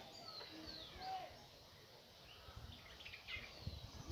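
Faint bird calls: a scatter of short chirps and slurred whistles from several birds, some rising and some falling. A few soft low knocks come in over the last second or two.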